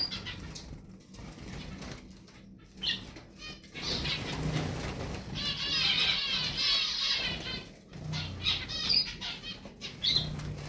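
Small finch-type songbirds singing: fast twittering, warbling phrases, a long run of song starting about four seconds in and lasting some three seconds, with shorter bursts before and after it.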